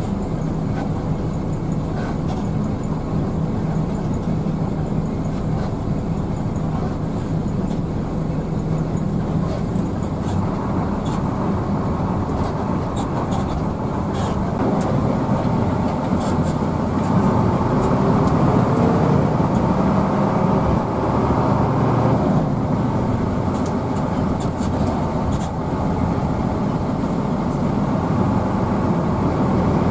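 Hino AK bus engine and road noise from inside the moving bus. The engine note climbs for a few seconds past the middle, as the bus picks up speed.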